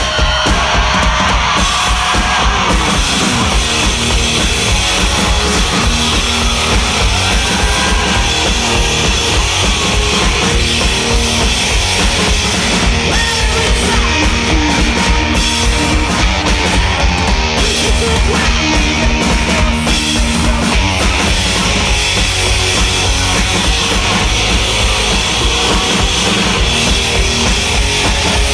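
Rock band playing live: drum kit and guitars driving a fast, steady beat, loud and continuous.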